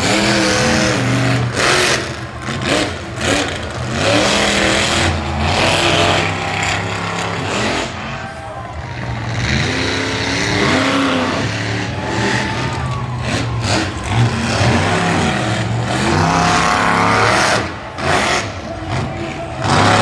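Monster truck engine running and revving hard, its pitch rising and falling again and again.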